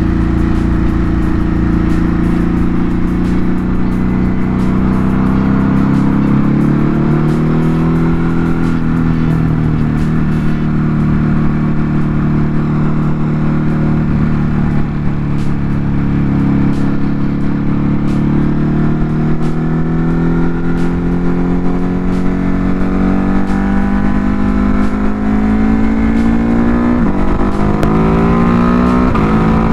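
Ducati Hypermotard 950 RVE's V-twin engine pulling at highway speed. The revs climb early, hold steady through the middle, then near the end rise and drop sharply twice with quick upshifts.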